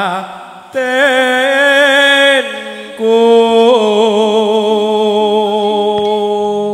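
A singer holding long, wavering notes of a slow Javanese song, two sustained phrases, the second ending on the word 'batinku'.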